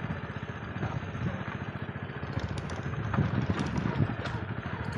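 A small engine running steadily, with a rapid, even putter.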